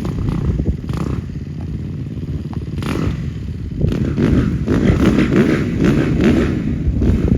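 Dirt bike engine running, growing louder about halfway through with its pitch sweeping up and down as it is revved hard.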